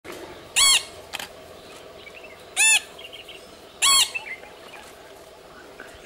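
A perched bird gives three short, loud, harsh nasal calls, each rising slightly and falling back. The second comes about two seconds after the first and the third a little over a second later, with fainter chirps in the background.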